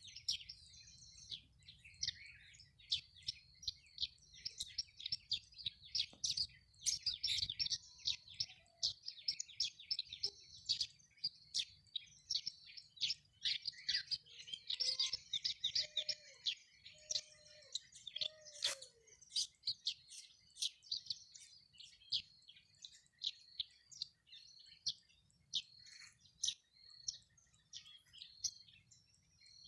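Many small birds chirping and twittering rapidly and continuously, with a few lower, drawn-out calls from another bird in the middle, over a faint low rumble.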